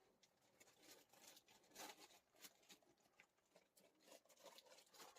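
Near silence, with a few faint, scattered light ticks and rustles.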